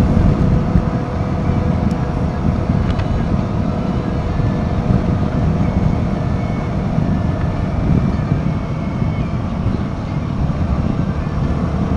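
Royal Enfield Himalayan 450's single-cylinder engine running steadily under way, at an even pitch and level throughout.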